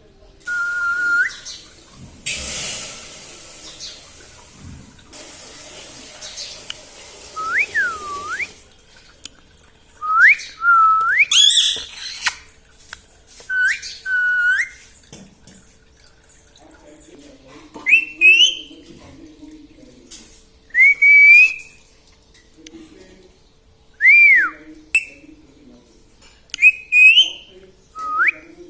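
Pet parrot whistling: a series of short, clear whistles that slide up or rise and fall in pitch, one every few seconds with pauses between. A stretch of hiss runs under the first third.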